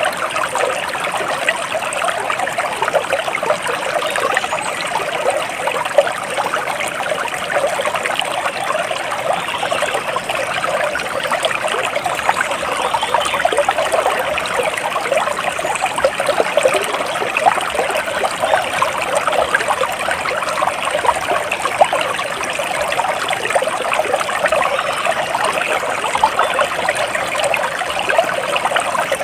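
Shallow stream water trickling and babbling steadily over stones, an even, unbroken splashing.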